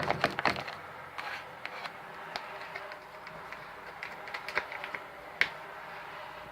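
Fluffy homemade slime being touched and worked by hand, giving small sticky clicks and pops: a quick cluster in the first second, then scattered single clicks, one sharper about five seconds in.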